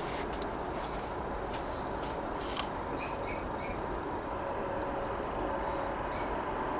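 A bird chirping in the background: a few short, high chirps in quick succession about three seconds in and another near the end, over a steady low background hum.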